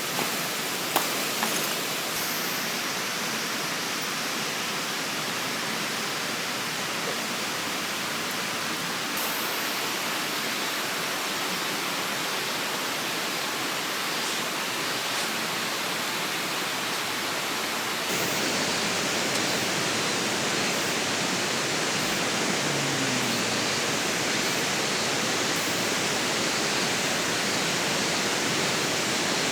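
Steady rushing of a flowing river, with a few light clicks about a second in; the rush steps up a little louder about eighteen seconds in.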